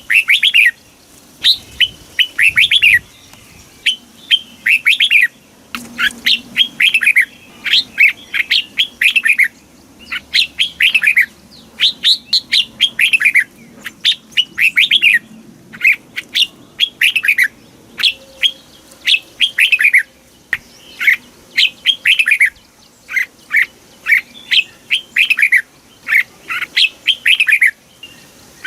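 Red-whiskered bulbul singing: short, loud whistled phrases of quick falling notes, repeated one after another with brief pauses.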